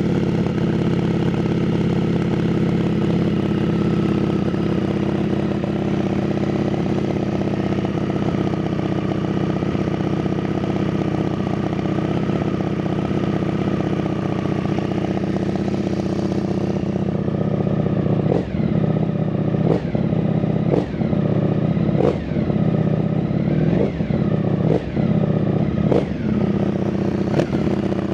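Ducati Streetfighter V4S's V4 engine breathing through an Arrow titanium exhaust, running steadily after a cold start. From a little past halfway it is blipped on the throttle about once a second, the revs rising and falling sharply with each blip.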